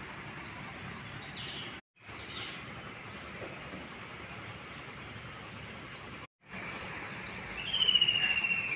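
Birds chirping over a steady background hiss: a few faint short chirps early, then one louder, drawn-out, slightly falling call near the end. The hiss cuts out briefly twice.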